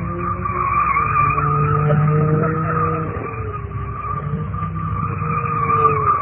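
A car drifting: its tyres squeal in one long, unbroken screech while the engine runs hard, its pitch rising and falling with the throttle.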